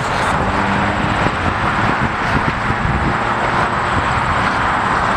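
Steady vehicle noise: a continuous rumble and hiss with no breaks.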